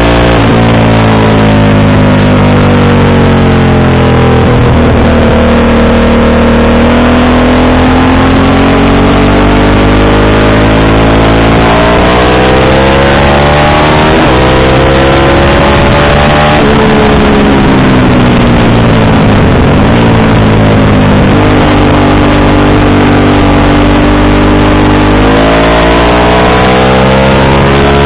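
Motorcycle engine running under way, its note rising and falling repeatedly as it accelerates, eases off and changes through the revs.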